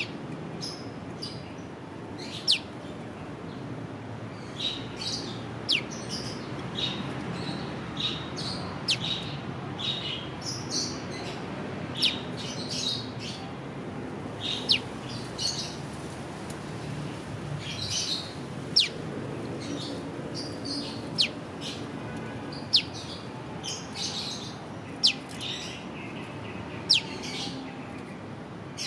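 Prenjak lumut calling its 'piw' note: a loud, sharp, quickly falling whistle repeated every couple of seconds, with softer chirps in between.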